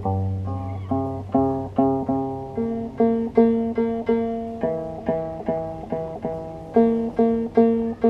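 Arpa-Ruedófono, a harp built from a bicycle wheel and amplified by piezoelectric pickups, plucked in a melodic run of ringing notes, about two a second, each fading before the next. A low steady tone sounds under the first notes.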